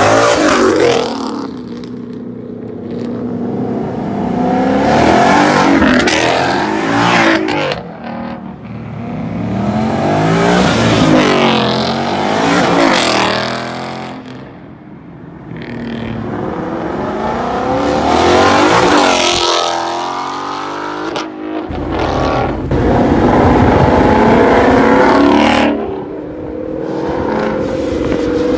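Cars accelerating hard as they drive past one after another, engines revving up and fading away in repeated loud swells every few seconds.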